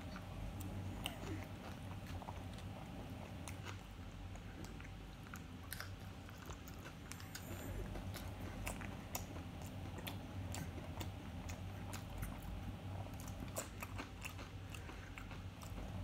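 A person chewing and crunching nacho tortilla chips, with irregular small crunches all the way through. A steady low hum runs underneath.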